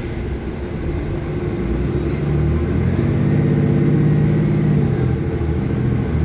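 City bus engine heard from inside the bus, pulling harder and accelerating: its hum swells and rises in pitch about two and a half seconds in, then settles, over a steady road rumble.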